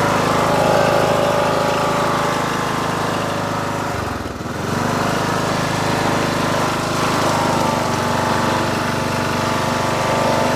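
Ride-on lawn tractor engine running steadily, with a brief dip in its note about four seconds in before it settles back.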